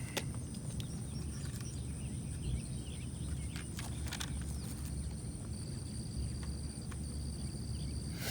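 Low outdoor background noise with a few light taps. A thin, steady high-pitched tone runs throughout, and a second, lower one joins about halfway through.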